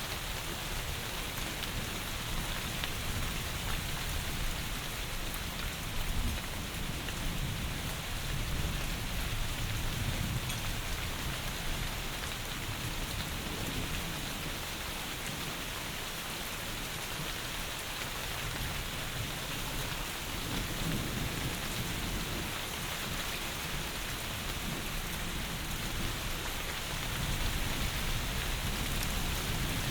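Heavy rain falling steadily, with low rumbles of distant thunder swelling and fading every several seconds, the strongest near the end.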